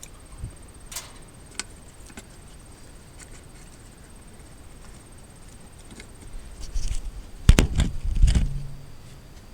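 Scattered light clicks, then a short cluster of loud, deep knocks and thuds near the end.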